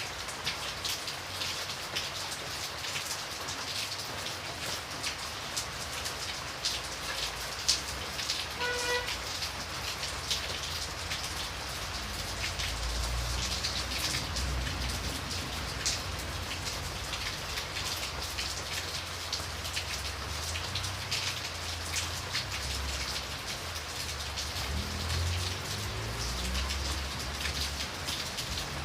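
Steady rain falling, with many separate drops ticking sharply on a surface. A brief pitched note sounds about nine seconds in, and a low rumble comes and goes through the second half.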